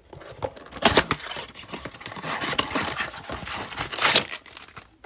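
Trading-card packaging being handled and torn open: plastic wrap and card packs crinkling, with two loud sharp rips, one about a second in and one at about four seconds.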